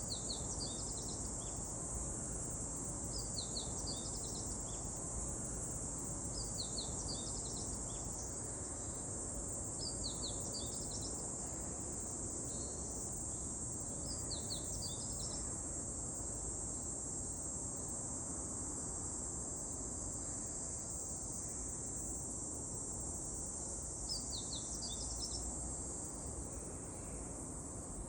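A songbird repeating a short, high, chirping song phrase about every three to four seconds, falling quiet for a stretch in the second half and singing once more near the end, over a steady high-pitched insect drone.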